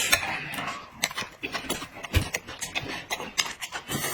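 A person eating with loud chewing and lip-smacking, an uneven string of wet clicks several times a second.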